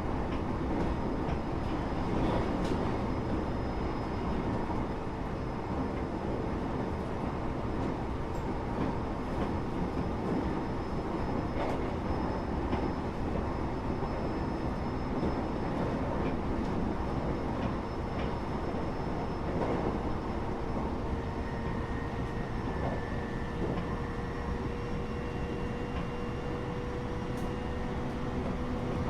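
Interior running noise of a Japanese passenger train in motion between stations: a steady rumble of wheels on rail, with a faint whining tone that edges up in pitch over the second half and a few light clicks.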